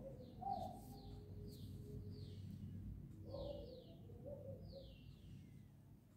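Birds chirping faintly: short falling chirps that repeat every second or so, with lower, shorter calls beneath them.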